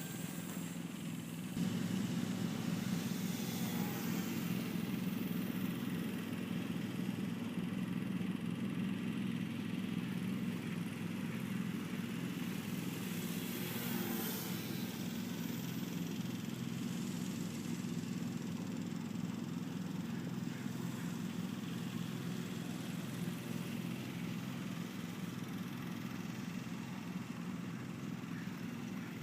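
Steady low droning hum of a running motor, stepping up slightly about a second and a half in and then holding even.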